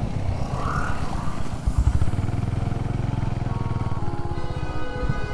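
Honda H'ness CB350's single-cylinder engine running steadily at low revs. From about three and a half seconds in, a tune of stepped melodic notes plays over it.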